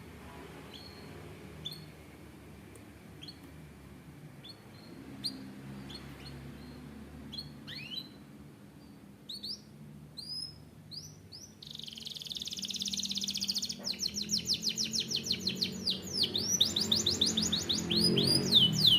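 Canary singing: scattered short chirps and rising whistles at first, then from about halfway a fast, continuous trill that grows louder.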